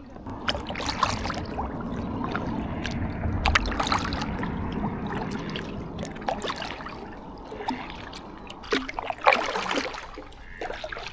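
Kayak paddle strokes in the water, splashing and dripping, with scattered knocks and clicks. The sound eases off after about seven seconds, with a few more splashes near the end.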